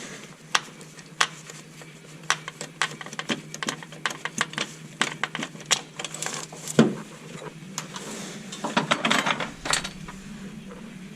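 Metal tools and parts clinking and knocking: a string of sharp clicks and taps, the loudest about seven seconds in, then a denser clatter, over a steady low hum.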